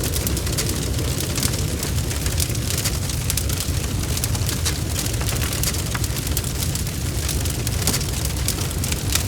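Wood fire burning in a fireplace: a steady low roar of the flames under dense, irregular crackling and popping of the logs.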